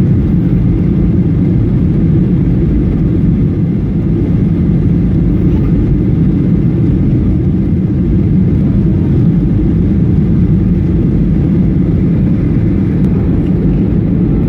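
Steady low roar inside the cabin of an American Airlines Boeing 737: engine and airflow noise heard from a passenger seat.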